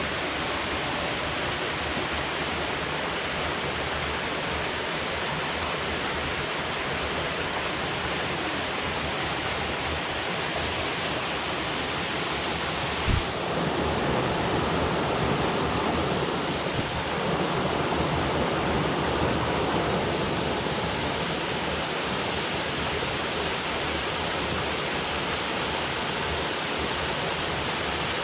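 Steady rush of water falling from a dam and the river flowing below it. About halfway through there is a brief low thump, then for several seconds the rushing grows louder and duller before settling back to its steady level.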